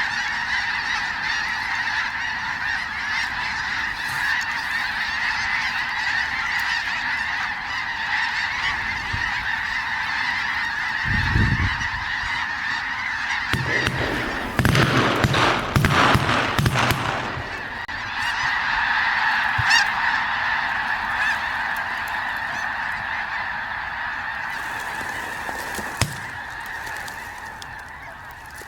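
A large flock of snow geese calling, a continuous dense clamour of honks. About halfway through, a louder rush of noise lasts a few seconds over the calling.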